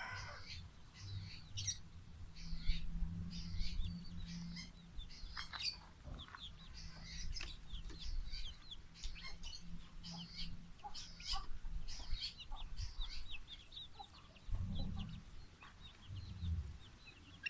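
Songbird singing in a rapid run of short, high chirps and trills, with brief pauses between phrases.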